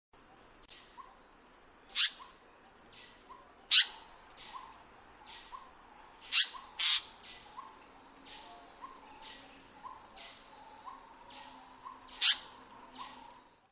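Wild birds calling in woodland: one bird repeats a short note about twice a second, over a steady high hiss. Five loud, sharp, high calls break in, two of them close together near the middle.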